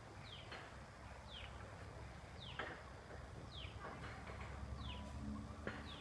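A bird calling over and over, one short falling note about once a second. A few sharp knocks, like footsteps, and a faint low hum lie underneath.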